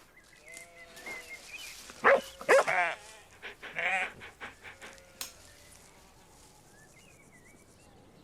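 Small animated dog yapping and whining in a few short calls, loudest about two to three seconds in, then quieting.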